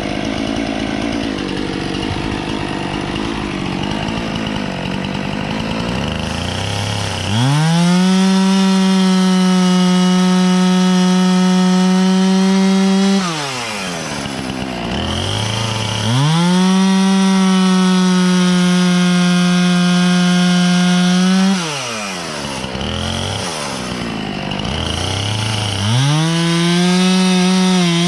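Husqvarna two-stroke chainsaw running at low speed, then throttled up and held at a high, steady pitch while cutting through dry oak, twice for about six seconds each. It drops back between cuts. Near the end it throttles up again, its pitch wavering under load.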